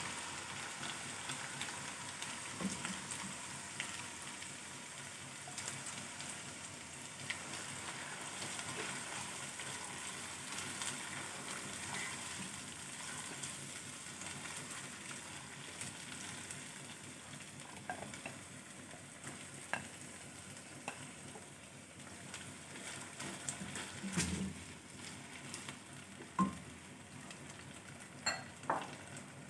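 Cornflour-coated chicken cubes sizzling in hot oil and ginger-garlic paste in a nonstick wok: a steady frying hiss that slowly quietens. A silicone spatula stirs through it, with a few short taps and scrapes on the pan, mostly in the last ten seconds.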